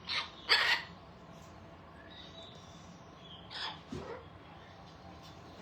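Pet parrots squawking: two short loud calls close together at the start, then two fainter calls about three and a half seconds in.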